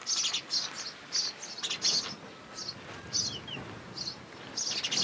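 Small birds chirping: short, high chirps several times a second, with a couple of brief falling notes about three seconds in.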